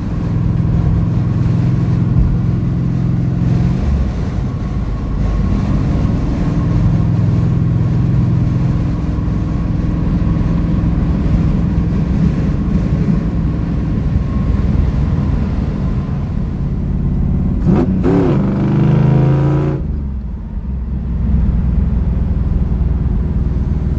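Cabin sound of a 1967 Mercury Cougar's V8, fuel-injected by a Holley Sniper EFI, running steadily while driving at speed, with road noise. About eighteen seconds in, the sound briefly changes pitch and then dips.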